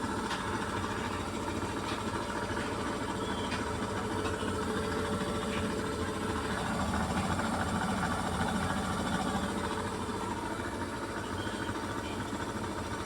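Beko washing machine drum spinning at 800 rpm: a steady, helicopter-like rumbling whir that swells slightly about halfway through.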